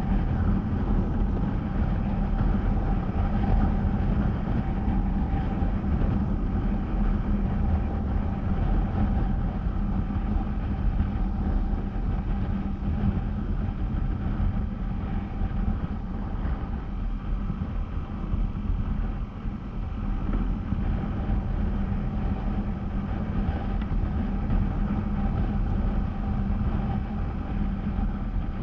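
Honda CBR250R's single-cylinder engine running at a steady pace while riding, its note holding steady over a heavy rumble of wind on the microphone.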